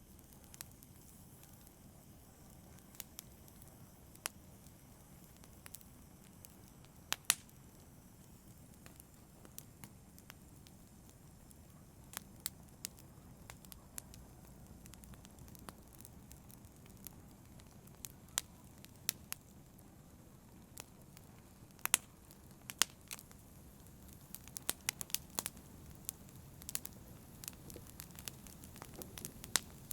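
Wood fire burning with a low steady rumble and scattered sharp crackles and pops, sparse at first and coming thicker and faster over the last several seconds.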